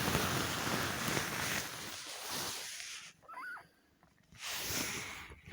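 Close rustling and rubbing noise in two spells, as of towels in the birthing box being moved. Between them, about three seconds in, comes one short, thin, wavering squeak from a newborn kitten.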